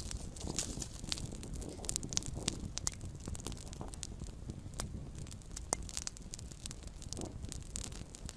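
Small campfire burning, with irregular sharp pops and crackles over a steady low rumble of flame.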